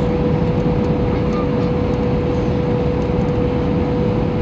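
Airbus A321 cabin noise: a steady low rumble of engines and airflow, with a constant hum tone over it.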